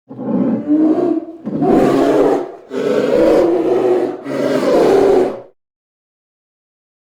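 Lion roaring: four rough, loud roars in a row, each about a second long.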